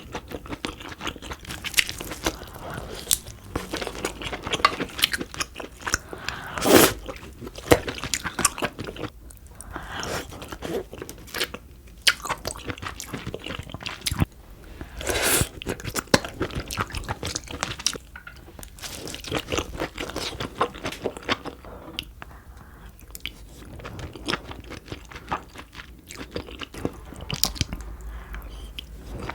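Close-up eating sounds of a person eating seafood: steady chewing with many sharp crunches and bites throughout.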